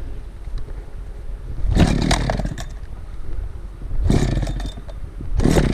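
Chainsaw being pull-started in the cold: three pulls, each about one and a half to two seconds apart, the engine sputtering briefly on each without settling into a run.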